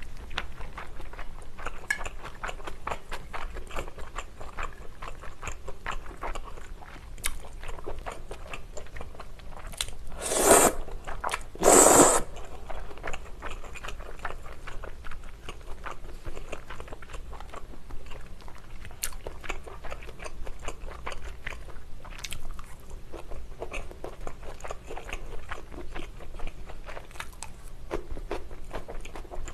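Close-miked chewing and biting of pasta with shrimp and bell pepper: soft crunches and wet mouth sounds with many small clicks. Two short, louder rushing noises come about ten and twelve seconds in.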